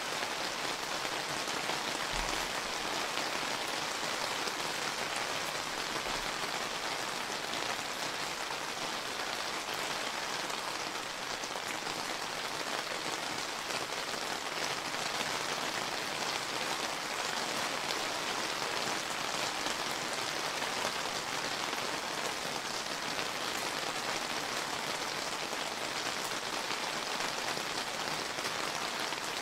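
Steady rain falling and pattering on surfaces: an even hiss of many drops that neither builds nor eases.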